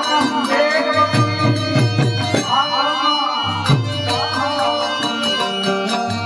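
Gujarati devotional folk song with a singing voice over tabla-like hand drums and a steady drone.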